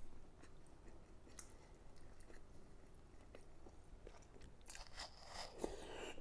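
A person chewing food close to the microphone: faint scattered mouth clicks, then louder crunchy chewing for the last second and a half.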